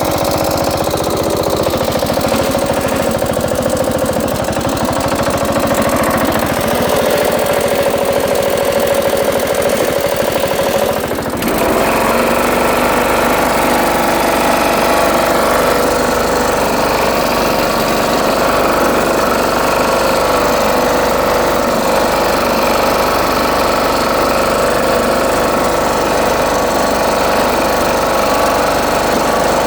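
Ariens 20 HP lawn tractor engine running steadily. About a third of the way through there is a brief dip, and after it the engine runs on with a different, brighter tone.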